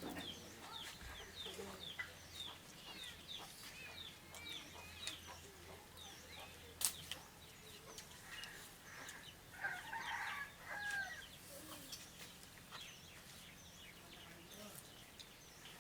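Chickens in the background, clucking with a run of quick, high chirps over the first few seconds and a short burst of calls a little past the middle; one sharp click partway through.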